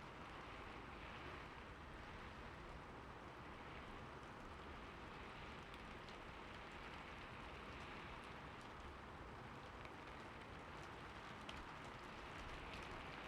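Steady light rain: a soft, even hiss with scattered drops ticking on a surface.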